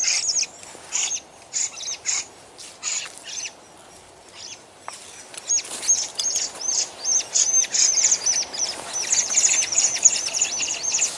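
Small birds chirping: short high chirps that drop in pitch, scattered at first, then after a lull of a second or two a quick run of many chirps, several a second, from about halfway on.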